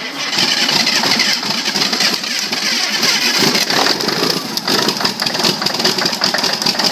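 Caterpillar 3408 V8 diesel engine firing up after seven years in storage and running loudly, its sound turning more choppy about halfway through.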